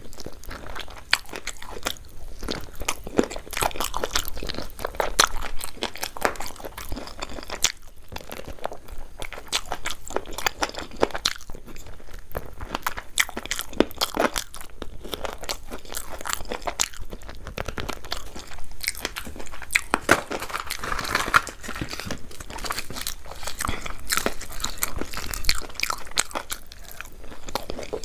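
A person biting and chewing food close to the microphone: a continuous run of crunches and small clicks.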